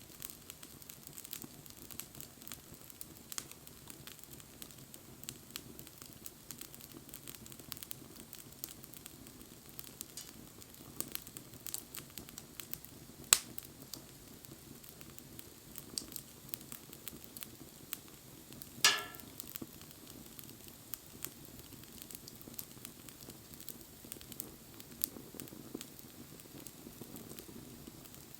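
Wood fire crackling, with a steady low hiss and scattered small clicks. A loud sharp pop comes about halfway through, and another, trailing a short hiss, about two-thirds in.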